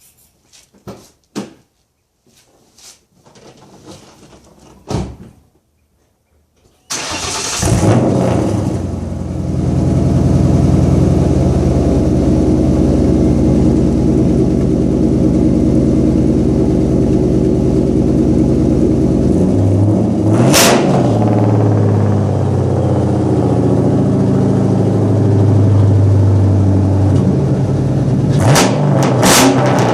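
Ford Mustang 4.6-litre V8 with an off-road H-pipe and SSS Intimidator exhaust, started about seven seconds in after a few light clicks, then idling steadily. There is a quick rev blip about two-thirds of the way through and two more blips near the end.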